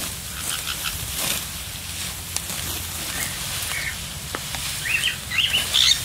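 Birds chirping in short rising and falling calls, more often toward the end, over a steady rustling of rice stalks being cut and handled by hand.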